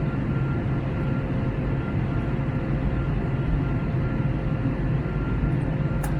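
Cabin noise inside an Airbus A321neo (A321-271NX, Pratt & Whitney geared turbofans) in flight: a steady low rumble of engines and airflow with faint steady hums over it. A single short click sounds near the end.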